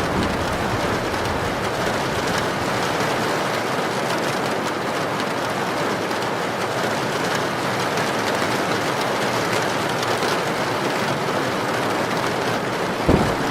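Heavy rain falling in a steady, even hiss, with a sudden low rumble of thunder breaking in near the end.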